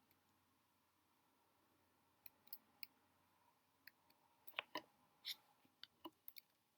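Near silence broken by faint, short clicks and taps: none for the first two seconds, then scattered ones that come closer together over the last couple of seconds.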